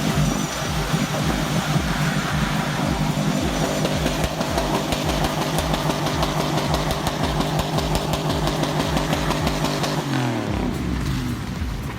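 Off-road vehicle's engine running hard under load, with the revs falling off about ten seconds in.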